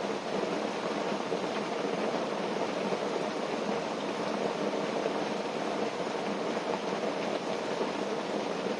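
Steady rain falling on a tent, heard from inside as an even patter with no let-up.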